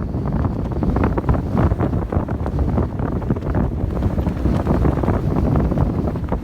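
Strong wind buffeting the microphone on a sailboat in heavy weather: a dense, gusty rumble with constant flutter.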